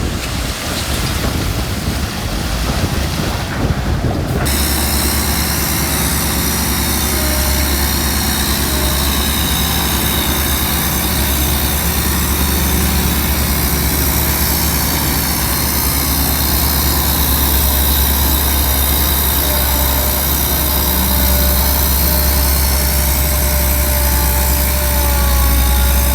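Wind buffeting the microphone, then after a cut about four seconds in, the heavy diesel engine of earthmoving machinery running steadily.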